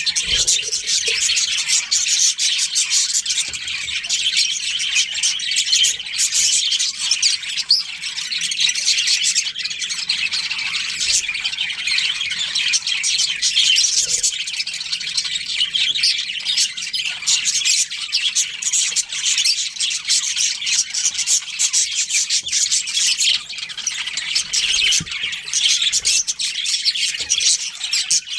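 A colony of budgerigars chattering and chirping all at once, many birds overlapping in a dense, unbroken twitter.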